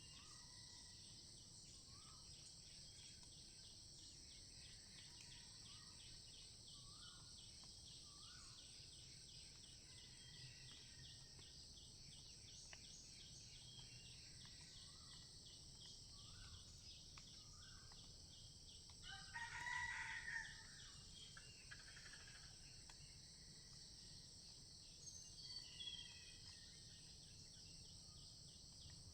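A cock crows once, loud against the background, about two-thirds of the way through. Under it, insects drone steadily with a high, finely pulsing buzz, and a short call repeats every second or two.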